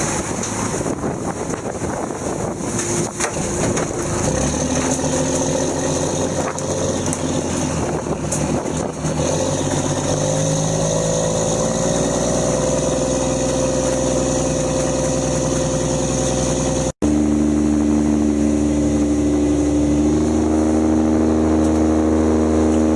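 Fishing boat's engine running under wind and water noise. Its pitch rises about halfway through as it speeds up, then holds steady. After a sudden cut, a steady engine drone continues.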